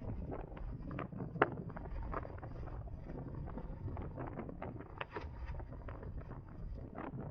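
Wind buffeting the microphone and road rumble on a moving 2023 CSC Zongshen RX1e electric motorcycle, with a faint high steady whine. Scattered sharp ticks cut through, one louder about a second and a half in.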